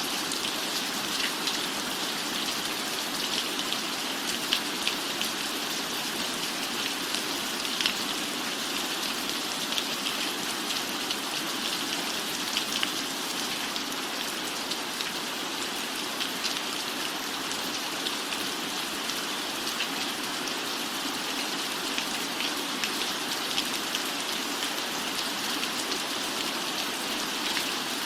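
Steady rainfall, an even hiss with many scattered, sharp ticks of individual drops.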